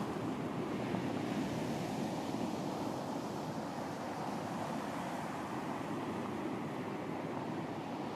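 Ocean surf washing onto a beach: a steady wash of waves that swells a little in the first couple of seconds, then eases.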